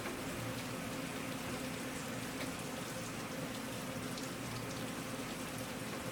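Steady rain falling, with the ticks of individual drops striking a surface over an even hiss.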